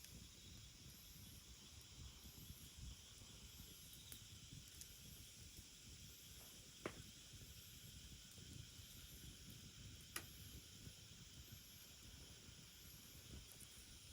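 Faint wood fire burning in a fire stand over a steady low hiss, with two sharp pops from the burning firewood, one about halfway through and another about three seconds later.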